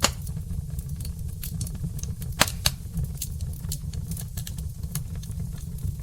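Wood fire burning in a brick hearth, crackling with many small sharp snaps over a steady low rumble. A louder pop comes right at the start and two more about two and a half seconds in.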